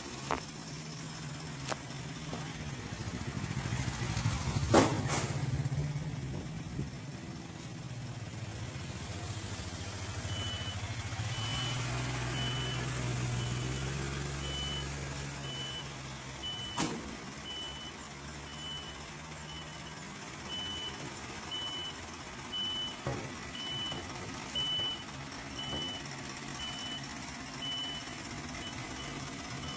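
Engine running steadily, with a sharp knock about five seconds in. From about ten seconds in, a reversing alarm beeps about once a second.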